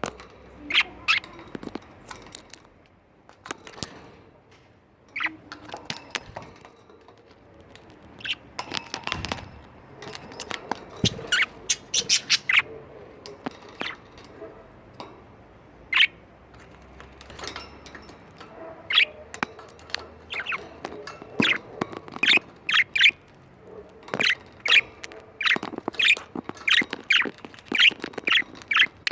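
Pet budgerigars chirping and squawking in short, sharp calls that come in irregular flurries, busiest in the second half.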